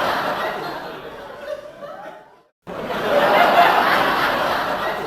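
Several people laughing and talking over one another. It fades, cuts out briefly about two and a half seconds in, then the same laughter starts again.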